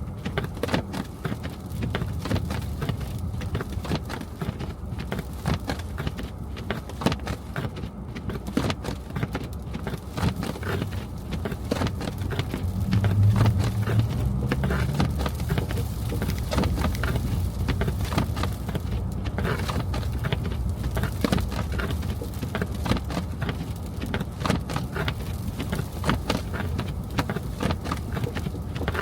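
Car driving through snowy, slushy city streets: a steady low road rumble with constant crackling ticks over it. The low rumble swells for a couple of seconds about midway.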